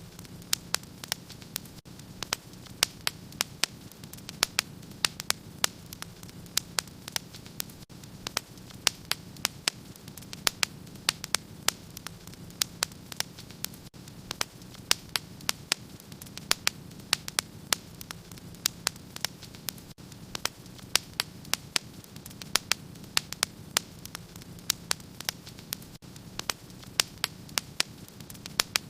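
Wood fire crackling in a fireplace: sharp irregular pops and snaps, several a second, over a steady low hum and faint hiss.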